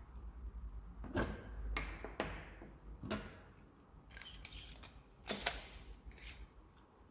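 Wooden joinery parts being handled and fitted together: a series of light knocks and clicks of wood on wood, the loudest about five and a half seconds in.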